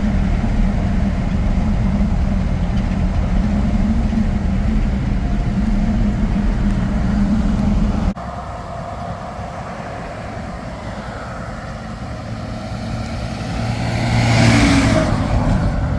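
6.7-litre Cummins turbo diesel of a Ford F-750 bucket truck running steadily, heard close. After an abrupt cut about halfway through, the truck drives by, growing louder to a peak near the end and then fading.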